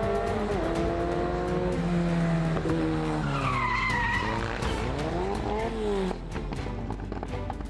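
Rally car engine revving hard, its pitch falling in steps through gear changes, then rising and falling again. A brief tyre squeal comes about three and a half seconds in as the car slides, and the engine sound drops off after about six seconds.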